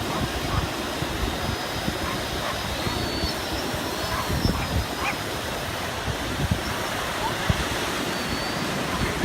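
Steady rushing of ocean surf with wind buffeting the microphone in irregular low thumps.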